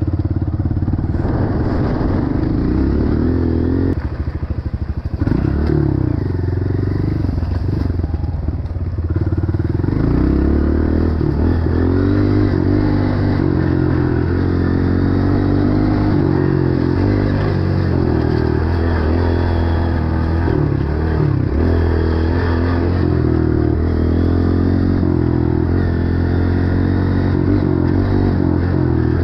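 Dirt bike engine running close by under the rider, its pitch rising and falling as the throttle is opened and eased off, with a brief easing about four seconds in.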